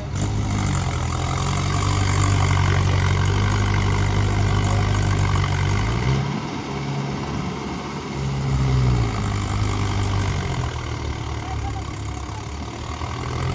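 Mahindra tractor's diesel engine running, revved up at the start, easing off about six seconds in, revving again briefly around eight to nine seconds, then settling lower.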